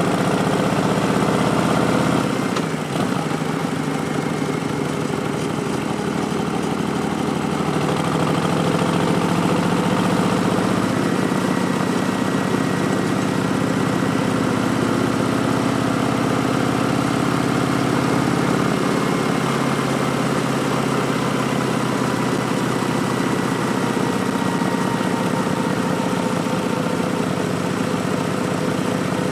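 2019 Harley-Davidson Street Bob's Milwaukee-Eight 107 V-twin running through V&H Twin Slash slip-on exhausts, a steady engine note whose pitch drifts slowly, with a brief dip in level about two seconds in.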